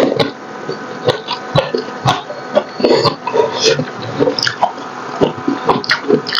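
Close-miked chewing and lip smacking of someone eating gelatinous braised pork hock: irregular wet, sticky clicks and squelches, several a second.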